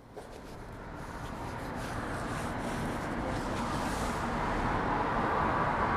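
Road traffic: a passing vehicle's engine and tyre noise growing steadily louder as it approaches.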